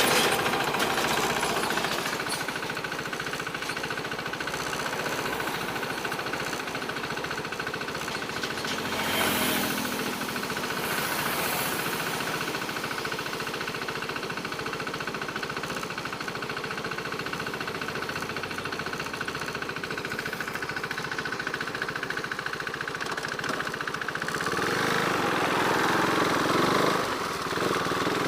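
Motorcycle engine running steadily on the move, a fast even chatter, swelling briefly about nine seconds in and again near the end.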